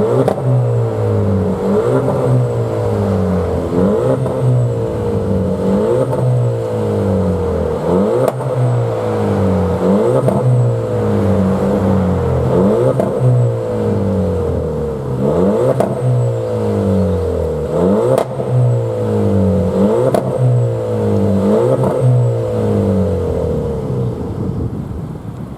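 Engine being revved over and over, its pitch rising and falling about every two seconds.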